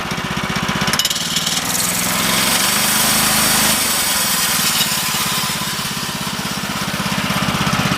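The small gas engine of a Woodland Mills HM130 Max portable sawmill running. About a second in its note changes and picks up, and a steady high whirring hiss joins as the band blade is driven. This is a test run of the freshly tightened blade.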